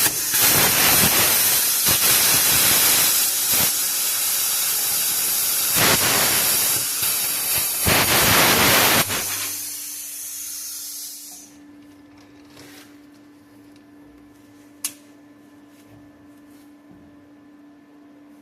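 Bestarc plasma cutter cutting through exhaust pipe, a loud steady hiss of the arc and air jet for about nine seconds. It then drops to a softer air hiss that fades out a couple of seconds later once the arc stops, followed by a low steady hum and a single click.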